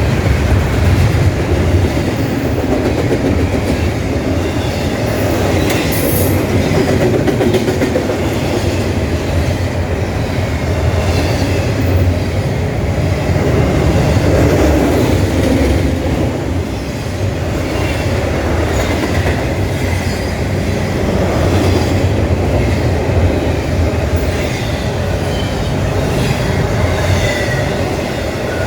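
Norfolk Southern freight train rolling past, a loud, steady rumble of wheels on rail with clacking over the rail joints.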